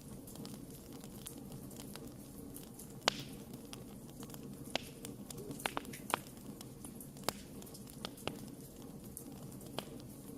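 Wood campfire crackling: a steady low hiss of burning with irregular sharp pops and snaps, the strongest about three seconds in.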